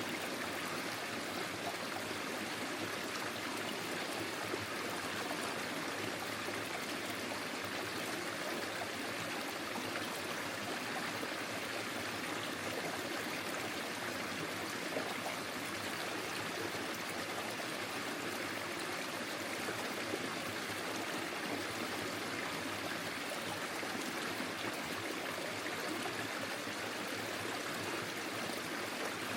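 Small forest stream flowing steadily over stones, a continuous babbling and trickling of water.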